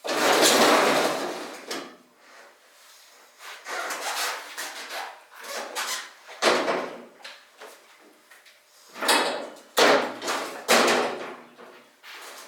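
Several sudden scraping and knocking noises, each a second or so long, the loudest right at the start, like things being moved about or a door or drawer handled.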